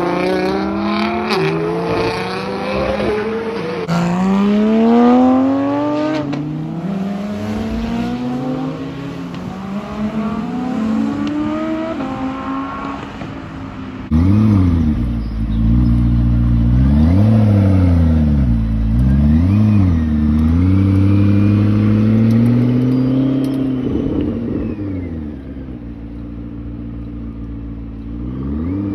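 Supercar engines accelerating hard. A McLaren 720S's twin-turbo V8 pulls away, its pitch climbing and dropping back through quick upshifts. About fourteen seconds in, a deeper engine is revved up and down several times, and near the end a McLaren P1 revs up.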